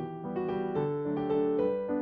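Background music: a piano playing a slow melody, one note every half second or so, each note left to ring.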